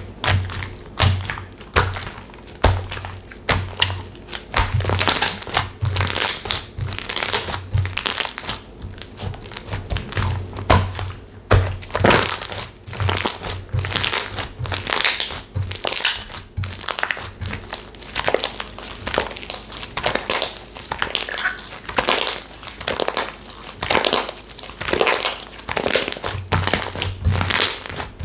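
Textured slime squeezed and pressed by hand: repeated crackling, crunchy squishes one or two a second, with dull thuds as it is pressed down.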